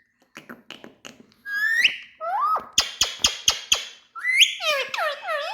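Indian ringneck parakeet vocalising: a few soft clicks, then rising whistles, a quick run of about six sharp chirps in a second, and swooping whistled notes that dip and rise near the end.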